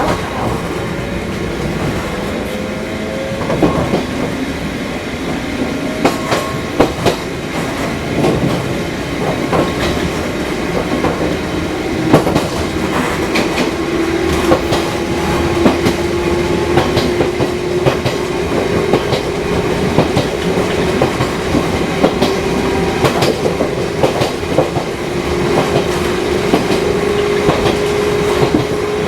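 Fukui Railway 200-series electric train running on the line, heard from aboard: a steady motor hum climbs slowly in pitch as the train gathers speed, with irregular clicks and clacks from the wheels over the track.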